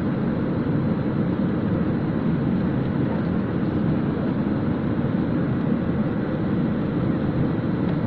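Passenger aircraft cabin noise: a steady, even rush of engines and airflow with no change in level.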